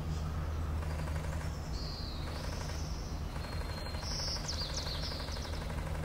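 A steady low hum runs under faint, high bird chirps: one brief chirp about two seconds in, then a run of quick wavering chirps around four to five seconds in.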